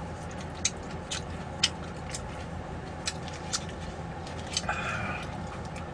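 Mouth sounds of someone chewing roast duck: short, sharp wet clicks and smacks about every half second, over a steady low hum.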